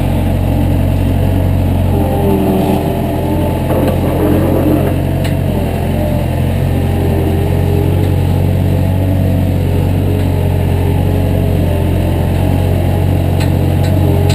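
Heavy equipment's engine running steadily at an even speed, a deep constant drone.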